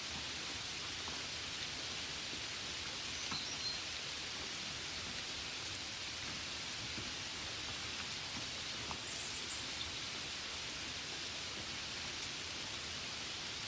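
Steady gentle rain: an even hiss with occasional small ticks of single drops. Two faint, brief high chirps come through, one about three seconds in and another about nine seconds in.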